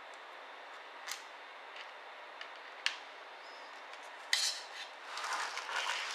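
Small hard clicks and clinks of laptop parts and tools being handled during disassembly. A louder clack comes about four seconds in, followed by a second or so of scraping and rubbing.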